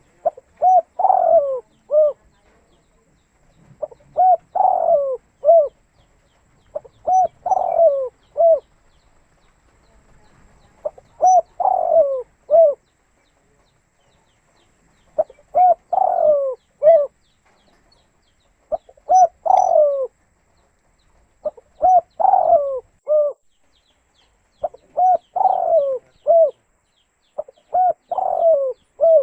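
Spotted dove (tekukur) cooing: a phrase of a few short coo notes repeated about every three to four seconds, nine times over.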